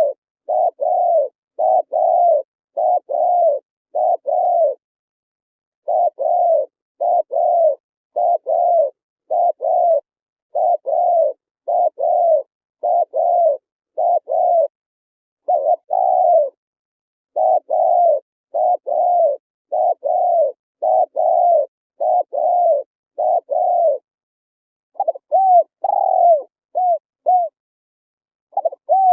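Spotted dove cooing: a long series of mellow coos, mostly in pairs, each note rising and then falling. There is a pause about five seconds in, and near the end a quicker run of shorter coos before it goes quiet. The gaps between notes are dead silent, as in a clean, edited recording.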